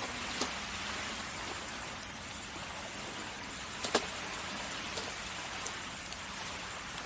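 Wood campfire crackling, with scattered sharp pops, two close together about four seconds in being the loudest, over the steady hiss of waves on the shore.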